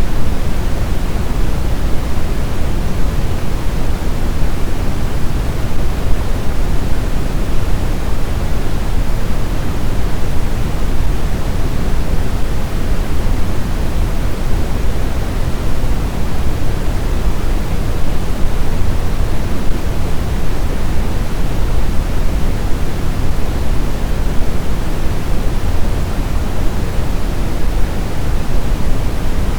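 Snowstorm wind: a steady, dense rush of noise, heaviest in the low end, without distinct gusts or howling tones.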